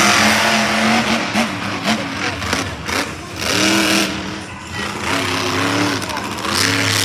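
Monster truck engine revving hard, its pitch surging up and falling back again and again during a freestyle run.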